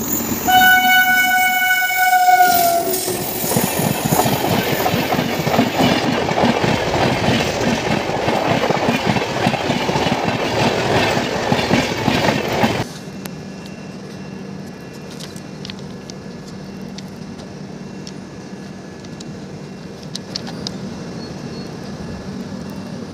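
Indian Railways passenger train passing close by. A horn sounds for about two and a half seconds, its pitch dipping slightly at the end, and then the coaches run past loudly on the rails for about ten seconds. The train noise cuts off abruptly and gives way to a quieter steady hum with a few light clicks.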